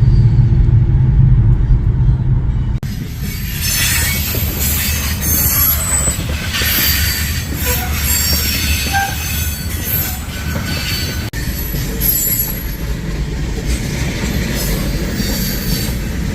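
A loud low rumble, then after a sudden cut about three seconds in, a train rolling by with its steel wheels squealing and screeching against the rails in shifting high tones over a steady rumble.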